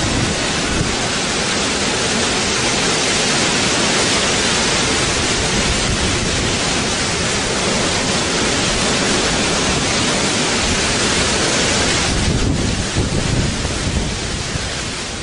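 Heavy rain in a thunderstorm, a dense steady hiss. About twelve seconds in the hiss thins and a low rumble of thunder comes up.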